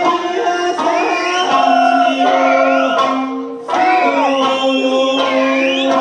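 Okinawan Eisa music: a sung folk melody that glides between notes, over steady held accompanying tones.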